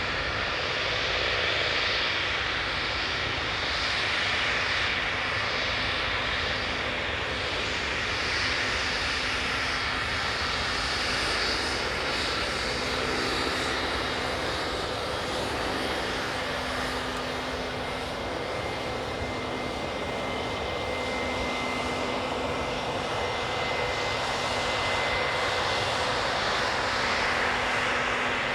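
Gulfstream G500's twin Pratt & Whitney Canada PW814GA turbofan jet engines running, a steady jet noise with a high whine that comes in about halfway through.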